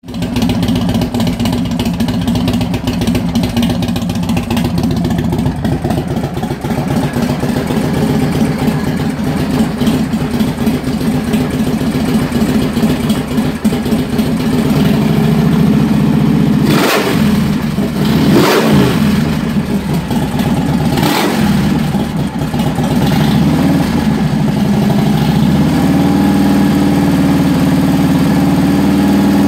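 Motorcycle engine idling through an RB Racing LSR-1 aftermarket exhaust. Past the halfway point it is blipped three times in quick succession, each rev rising and dropping back. It then settles into a slightly higher steady idle.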